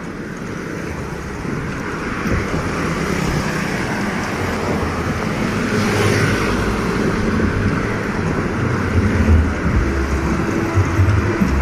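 Road traffic noise: a motor vehicle going by, swelling about halfway through, with low wind rumble on the microphone growing louder toward the end.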